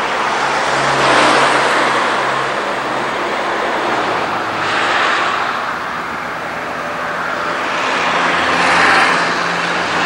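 A train running past: a steady rumble that swells and eases three times, under low diesel engine tones.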